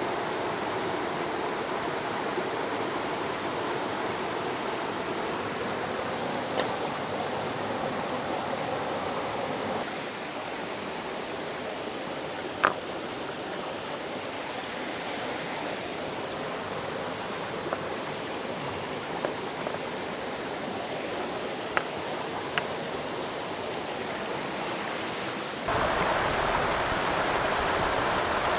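River water flowing steadily, with a few short sharp clicks or knocks over it, the clearest about halfway through. The rush of water changes abruptly twice, getting louder and fuller near the end.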